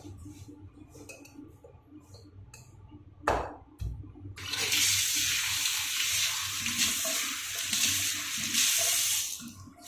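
Two sharp knocks from the fitting, then water rushes steadily out of a Kohler basin diverter tap as it is tested, dipping briefly near the end.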